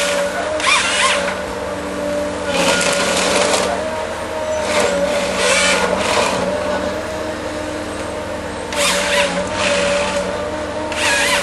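Forestry harvester running steadily with a constant engine hum, broken by repeated bursts of louder noise with a high squeal, each lasting about a second, as the harvester head works.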